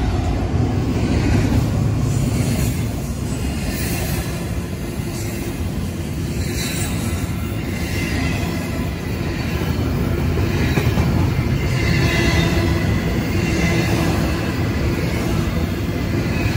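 Double-stack intermodal train of container well cars rolling past close by: a steady heavy rumble of steel wheels on the rails, with brief high wheel squeals coming and going.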